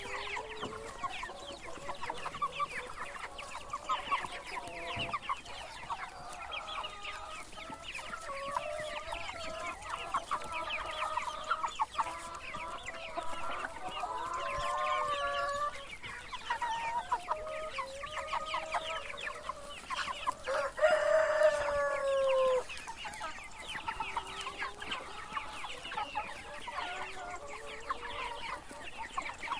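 Chickens clucking continuously in short overlapping calls, with a rooster's crow about two-thirds of the way through: one longer, louder call falling in pitch.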